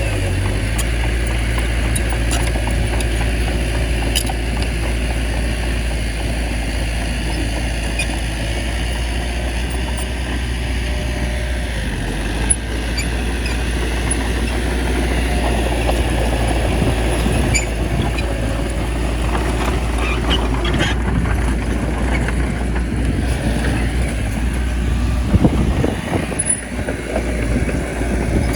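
Small bulldozer's diesel engine running steadily while working, with occasional short metallic clicks over the drone; the sound turns uneven near the end.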